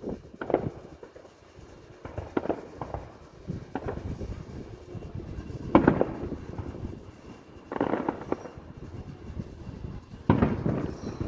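Aerial fireworks bursting: a run of sudden booms, the loudest about six and ten seconds in, each followed by crackling.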